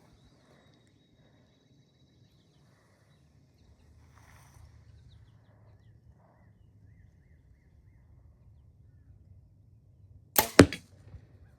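A bow shot: the string's sharp release snap, and a fraction of a second later the arrow, tipped with a G5 Dirty Bird turkey broadhead, striking the pillow target. This comes near the end after a quiet wait at full draw.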